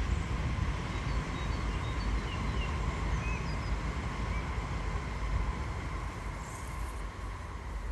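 Outdoor ambience: a steady low rumble with small birds chirping briefly here and there.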